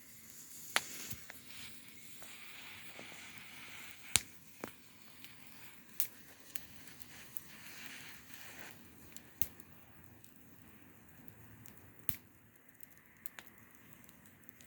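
Campfire crackling, with sharp, irregular pops of burning wood every couple of seconds over a soft hiss that dies down about two-thirds of the way through.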